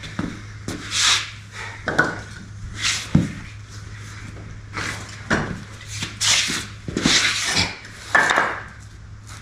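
Wooden boards, 2x4 lumber, being picked through and moved, giving a string of irregular knocks and scraping rubs, over a steady low hum.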